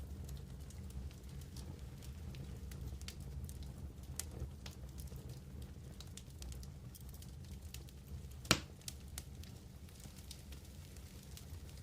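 Wood campfire crackling, with scattered small snaps and one sharp pop about two-thirds of the way through, over a low steady rumble.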